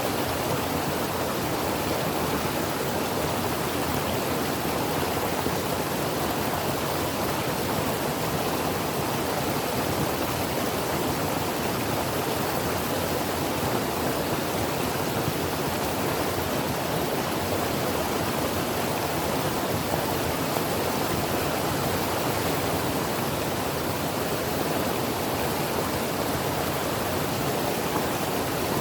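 Creek water flowing over rocks: a steady, even rush with no changes.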